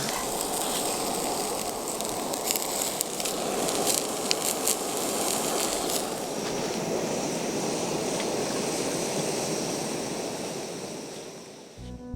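Food frying in a pan over the fire: a steady sizzle with scattered crackles and pops, fading out near the end.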